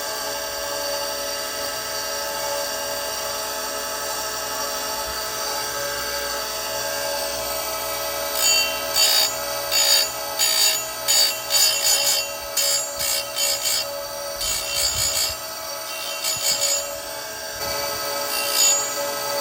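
Oregon 410-120 chainsaw chain grinder with a CBN wheel: the motor hums steadily with the wheel spinning, then from about eight seconds in the wheel is brought down on a chain cutter tooth in a quick series of short grinding swipes, each a brief high-pitched rasp.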